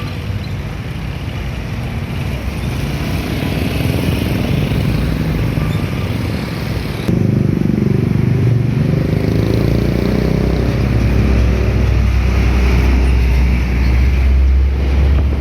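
Heavy highway traffic passing, with trucks' engine rumble and tyre noise; about seven seconds in it suddenly gets louder and deeper as a vehicle comes close.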